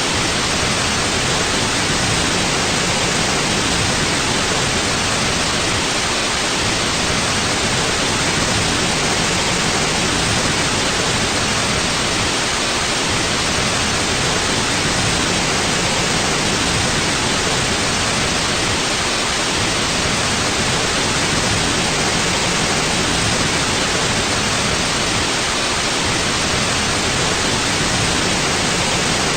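Steady white noise: an even, unchanging hiss with no rhythm or events.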